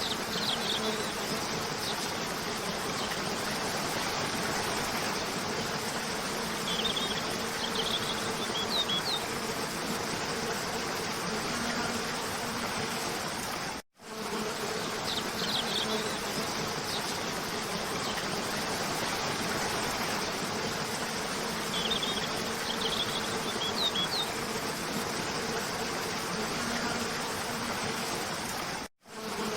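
Steady rush of a cascading waterfall under a low buzzing hum, with short high bird chirps now and then. The sound cuts out for a moment about halfway through and again near the end, then the same pattern repeats.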